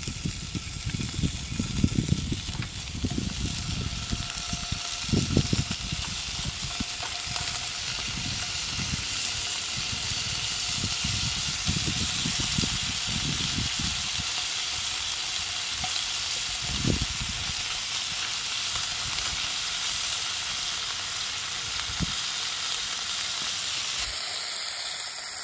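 Pork carnitas frying in a nonstick pan on a portable gas stove, sizzling steadily, with low knocks and bumps from stirring, mostly in the first half.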